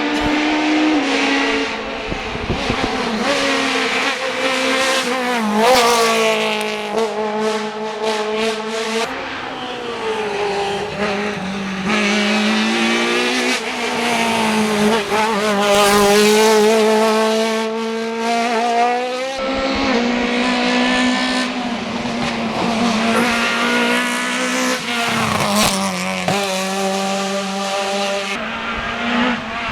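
Rally cars driven hard on a special stage: the engines rev up and drop back again and again as the drivers shift gears, lift and brake, with tyres squealing. The engine sound changes abruptly about two-thirds of the way through, as if a different car takes over.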